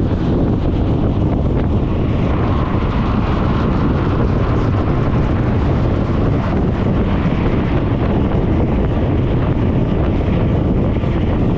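Steady wind rushing over the microphone of a GoPro mounted on a riding Suzuki Burgman 400 scooter, the road and scooter noise buried beneath it.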